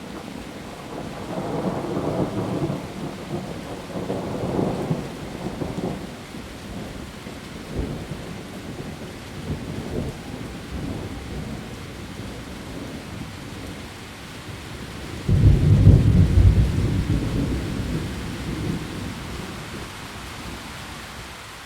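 Heavy rain falling steadily on leaves, with thunder rumbling low through it. About two-thirds of the way in a loud thunderclap breaks and rumbles away over several seconds.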